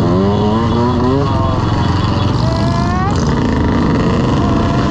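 Dirt bike engines revving over a steady low engine rumble. The pitch climbs in the first second or so, then climbs again about two and a half seconds in and cuts off sharply just after three seconds.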